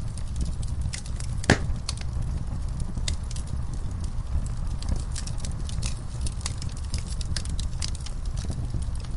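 Wood fire burning in a fireplace: a steady low rumble of flames with frequent sharp crackles and pops, and one loud pop about a second and a half in.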